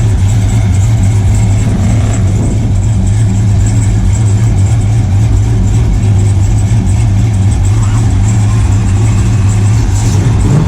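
Car engine idling steadily with a constant low drone.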